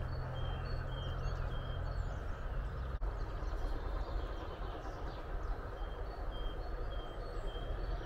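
A songbird repeating a short two-note phrase, a higher note then a lower one, in two runs, over a steady low rumble and hiss.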